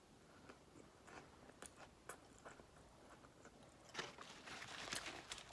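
Person chewing a crispy fried spicy chicken sandwich close to the microphone: faint crunching, becoming louder and busier from about four seconds in.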